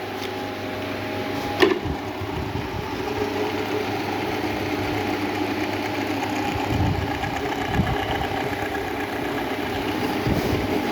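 Loose motorcycle engine idling steadily, with a sharp click about a second and a half in.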